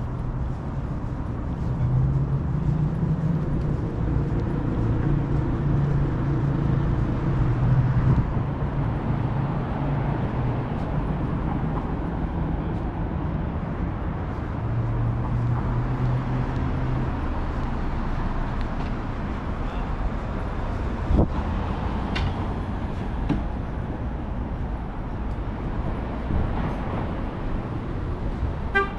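City street traffic. A vehicle engine runs close by with a low, steady hum through the first half, then eases into general traffic noise, with a sharp knock about two-thirds of the way through and a car horn starting just at the end.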